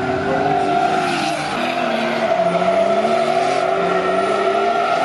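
Drift cars sliding at high revs: engines running hard with the pitch rising and falling as the throttle is worked, over the hiss and squeal of skidding tyres.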